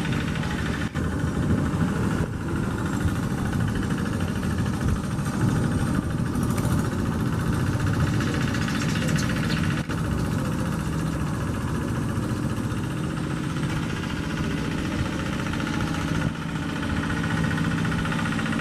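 Paddy-field tractor's diesel engine running steadily with a regular firing beat.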